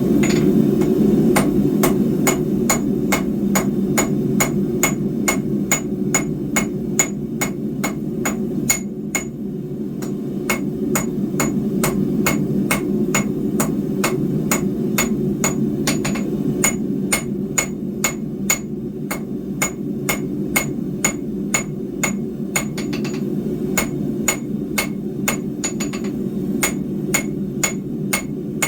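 Hand hammer striking hot square steel bar on an anvil in steady blows, about two a second, each ringing brightly, with a few short pauses. A constant low rushing noise runs underneath.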